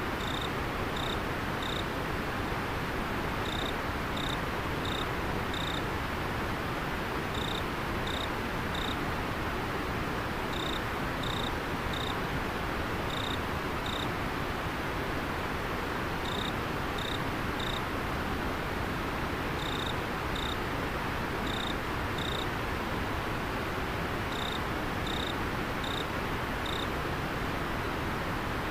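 River water flowing steadily, with a cricket chirping over it in short runs of three to five high chirps every few seconds.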